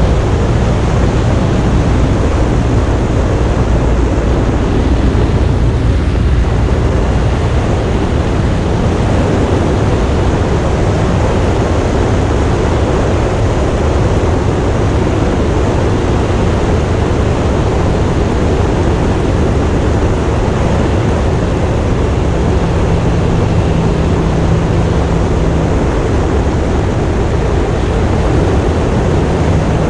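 Motorcycle riding at a steady speed: a low, even engine drone under loud, constant wind rush on the microphone.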